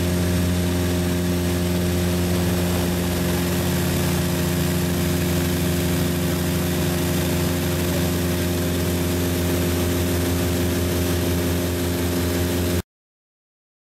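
Piper PA-44 Seminole's piston engine and propeller drone in flight, loud and steady, cutting off abruptly near the end.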